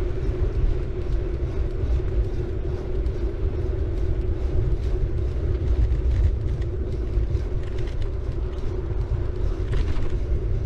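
City bike rolling along the road: steady low tyre rumble with a steady hum and scattered small clicks and rattles from the bike.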